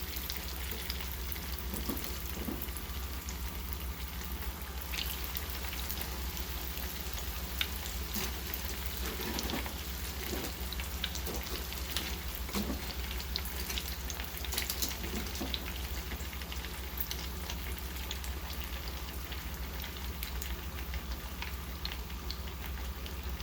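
Spring rolls frying in hot oil: a steady sizzle with scattered crackling pops.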